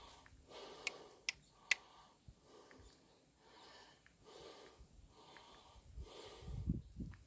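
A man panting hard, out of breath from climbing steep stone temple steps, with soft breaths about once a second. Three sharp clicks sound about a second in.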